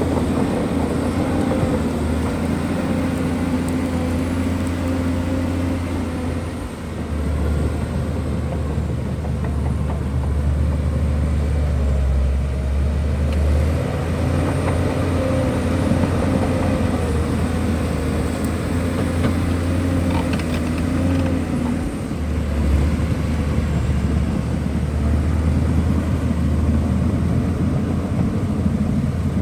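Diesel engine of a Shantui DH17C2 bulldozer running under working load. Its low note shifts a few times as the load and revs change.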